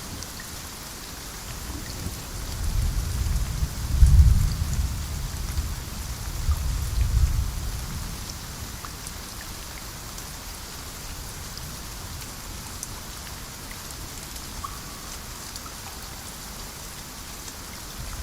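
Steady rain hissing on foliage, with rolling thunder rumbling twice in the first half, the louder peal about four seconds in, then rain alone.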